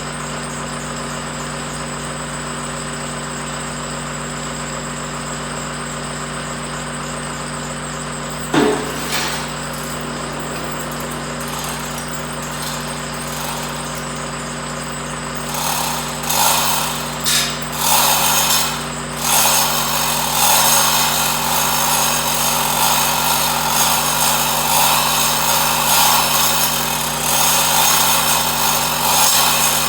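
A power tool starting in short bursts about halfway through, then running almost continuously, over a steady idling engine hum. A single sharp clank about a third of the way in.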